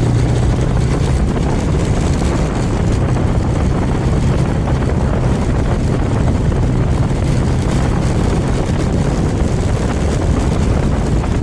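Suzuki Thunder 250 motorcycle engine running steadily at road speed under heavy wind rush on the rider's microphone.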